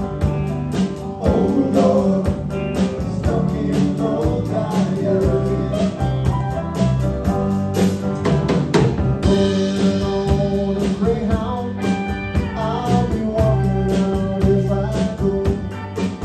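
Live rock band playing a country-rock song: drums keeping a steady beat under bass, guitars and organ, with singing.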